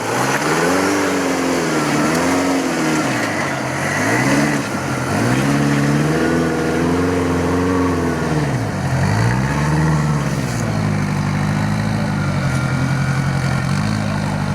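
Rock crawler's engine revving up and down repeatedly under throttle, five or so rises and falls, then holding a steadier speed over the last few seconds.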